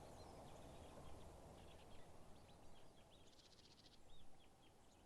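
Faint birds chirping and calling, with a short, rapid trill about three seconds in, over a low background hiss.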